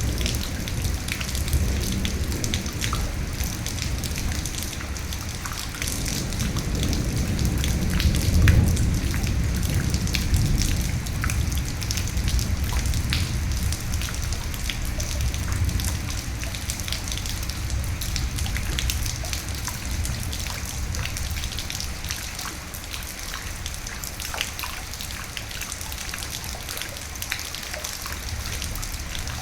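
Steady rain with many individual drops ticking, over a low rolling rumble of thunder that swells to its loudest about eight seconds in and then slowly dies away.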